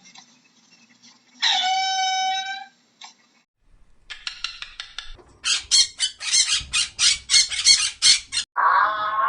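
A series of animal calls: one drawn-out, clear-pitched call, then a run of quick clicks, then a string of loud, harsh squawks at about four a second. Near the end a new wavering call begins.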